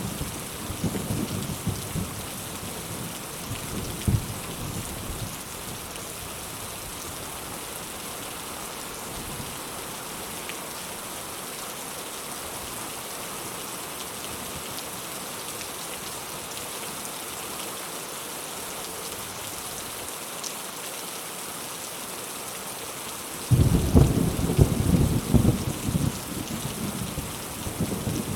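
Steady heavy rain hissing, with rolls of thunder: a low rumble dying away over the first few seconds, and a loud crack and rumble breaking in near the end.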